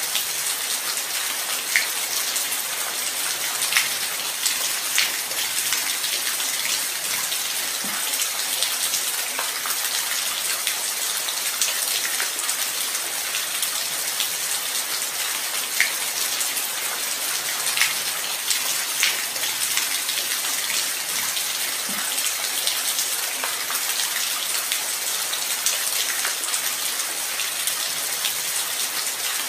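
Light rain falling steadily: an even high hiss with scattered single drops ticking out louder now and then.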